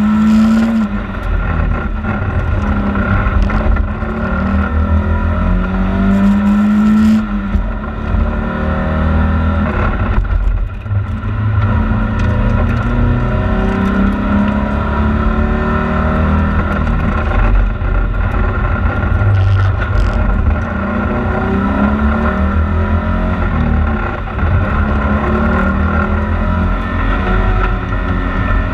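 Volvo 940 rally car's engine heard from inside the cabin, driven hard through a tight sprint course. The revs rise and fall again and again as the car accelerates and slows for the cone and tyre chicanes, with a sharp drop in revs about ten seconds in.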